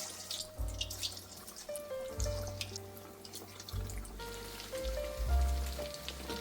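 Soft instrumental background music, a slow melody of held notes over deep bass notes, with a constant patter of water like running or dripping water or rain.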